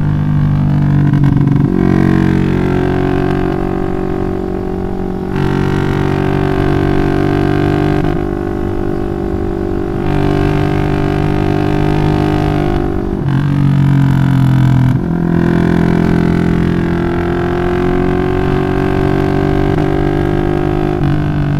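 Bored-up 180cc single-cylinder four-stroke Yamaha Jupiter MX engine through a Requsan aftermarket exhaust, running loud under load while riding. Its pitch shifts in steps several times, at gear or throttle changes.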